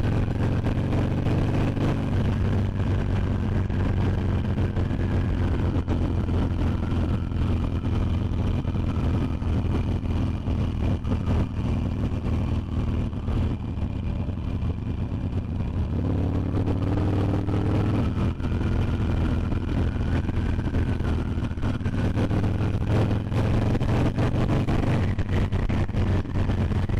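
Harley-Davidson Iron 883's air-cooled V-twin engine running steadily while riding, with the revs dropping off in the middle and picking up again about sixteen seconds in.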